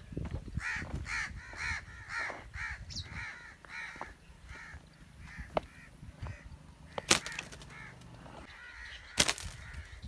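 Birds in the tree canopy calling with a run of harsh, evenly repeated calls, about three a second, that thin out after the first few seconds. Two sharp snaps about two seconds apart, the loudest sounds, come from the slingshot being shot into the tree.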